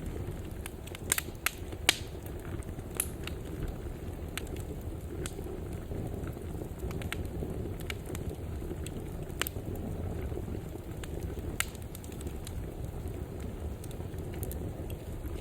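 Wood fire burning in a fireplace: a steady low rumble of flames with scattered sharp crackles and pops, a few louder pops near the start.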